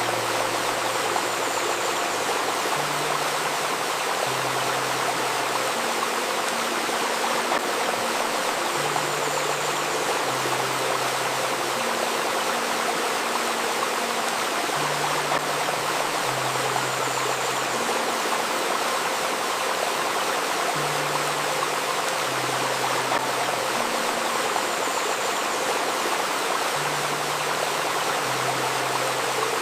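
Steady babbling of a river stream, mixed with a soft synthesized drone whose low notes change every couple of seconds and a held 528 Hz tone.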